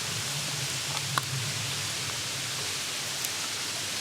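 Steady outdoor hiss with one sharp click about a second in.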